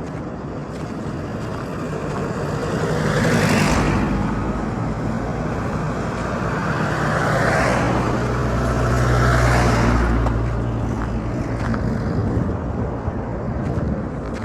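Road traffic: vehicles passing close by, three passes swelling and fading, the first about a quarter of the way in and two more past the middle, over a low engine hum.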